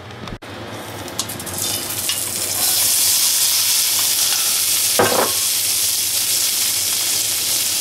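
Sheepshead mushrooms with chopped parsley and garlic hitting hot oil in a stainless-steel skillet: the sizzle builds over the first couple of seconds as they are tipped in from a glass bowl and pushed about with a wooden spoon, then holds as a steady, loud frying sizzle.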